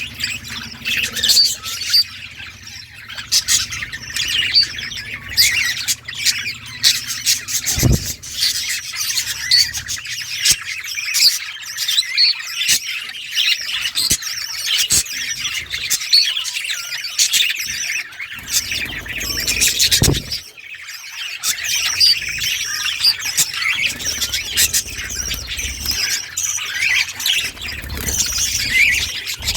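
A flock of budgerigars chirping and warbling continuously, with many overlapping calls. A couple of sharp knocks sound near the 8-second and 20-second marks.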